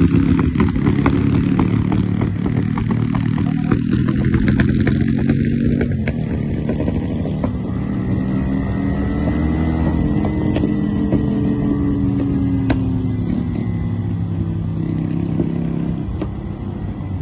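Motorcycle engine running unevenly and misfiring, with irregular sharp pops through the exhaust, thickest in the first few seconds. The revs rise a little and settle again about halfway through.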